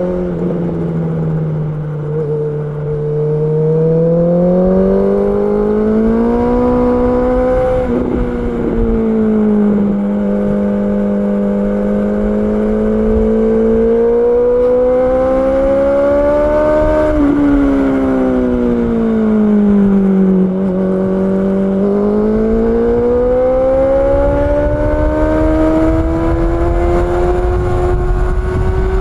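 Honda CB650R's inline-four engine pulling under load, its revs climbing steadily and then dropping sharply at each gear change, about three times, with one stretch of easing off in between. A low rushing noise runs underneath.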